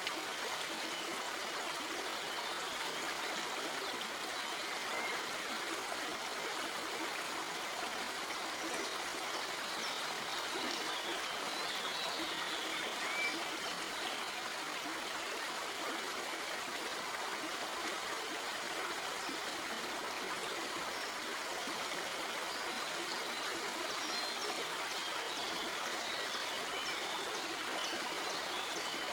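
Stream flowing over rocks, a steady rushing of water with small splashes and trickles running through it.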